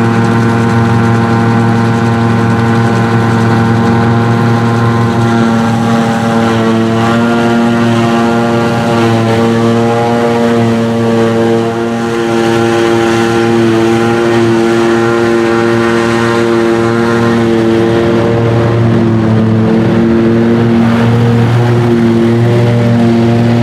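Heavy diesel farm machinery running at work during grass silage harvesting: a loud, steady engine drone with a strong hum, its pitch shifting a few times.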